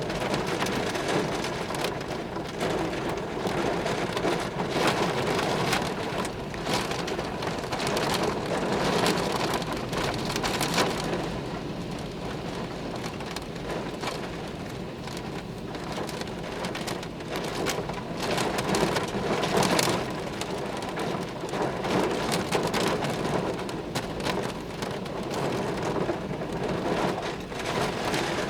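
Heavy rain pouring down in a violent thunderstorm, with gusting wind that makes the noise swell and ease every few seconds.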